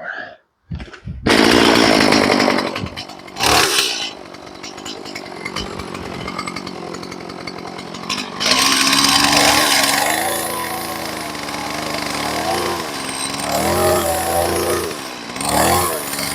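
Two-stroke chainsaw starting about a second in, then running at varying revs. It is trimming the corner off a log so the sawmill's blade cover will clear.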